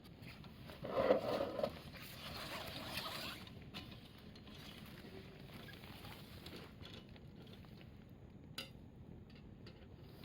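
Firewood burning in a heaped fire pit: a steady low rush of flame with a louder surge about a second in and one sharp crackle near the end.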